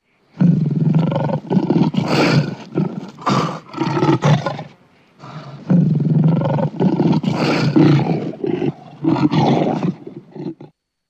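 Lion roaring: two bouts of loud, deep roars and grunts, each lasting about four to five seconds, with a short pause between them.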